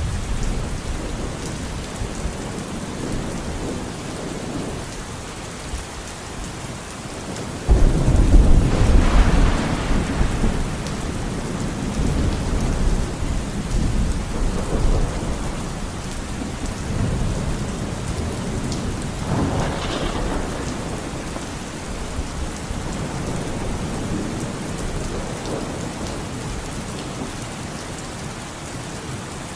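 Steady rain with rolling thunder. About eight seconds in a loud thunderclap breaks out and rumbles on for several seconds, and a second, lighter crack of thunder comes around twenty seconds in.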